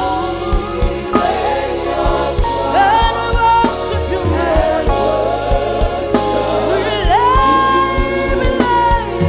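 Live gospel worship music: a lead voice sings long notes that slide up and down between held pitches, with choir singing, over sustained chords and a steady drum beat.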